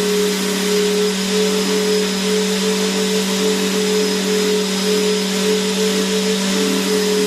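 Vacuum cleaner motor running steadily: an even rushing hiss over a constant hum, with no change in pitch or level.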